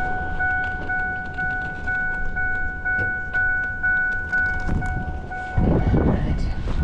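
A vehicle's electronic warning chime beeping steadily about twice a second over a low rumble, stopping about five seconds in. Louder wind or engine noise rises near the end.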